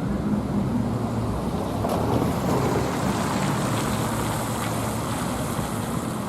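A car driving on a wet road: a steady low engine hum under the hiss of tyres on water, with the hiss thickening about two seconds in.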